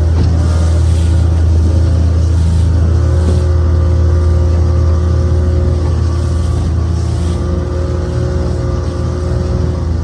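Motorboat engine running at a steady speed, a constant low drone with a couple of steady hum tones above it.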